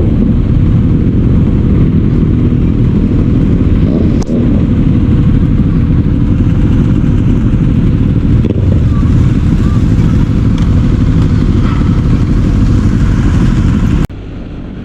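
A motorcycle running on the road, its engine sound mixed with a heavy low rumble of wind on the microphone. About fourteen seconds in it cuts suddenly to a much quieter, steadier sound.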